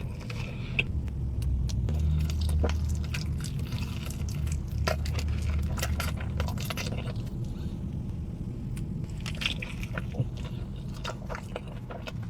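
Close-miked eating: biting into and chewing pizza, with short crunches and wet mouth clicks. A low hum sits underneath for the first half.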